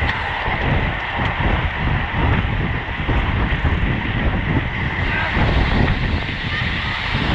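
Steady rushing wind on the microphone of a road bike at racing speed, mixed with tyre noise on the road and a faint steady high hum.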